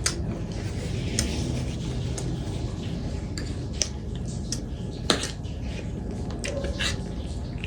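An eating utensil clinks against a plate or bowl with a few sharp, separate clicks, the loudest about five seconds in, over a steady low background hum.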